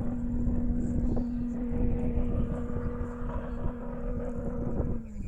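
A rally-raid car's engine held at a steady pitch, with rumbling noise underneath; the pitch drops a little and fades about five seconds in.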